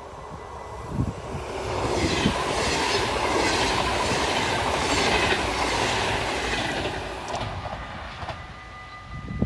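NS double-deck electric passenger train passing close by at speed: wheel-and-rail rumble and rattle build up about a second in, with a couple of sharp clacks as the wheels cross the rail joints. The sound stays loud for about five seconds, then fades as the train draws away.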